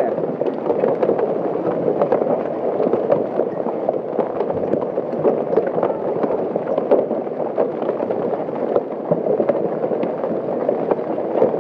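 Large hailstones pounding down and bouncing, a dense, continuous clatter of countless separate impacts over a steady roar.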